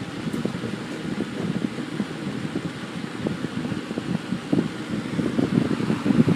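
Windsor C-122 box fan running on high speed: a steady low rush of air with an uneven flutter, getting a little louder toward the end.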